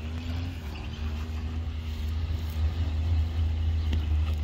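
Off-road vehicle engine running with a steady low rumble.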